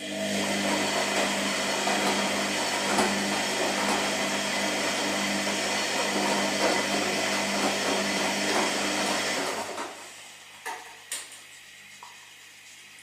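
Washing machine running with a steady whirring hum that starts abruptly and stops after about ten seconds, followed by a few sharp clicks.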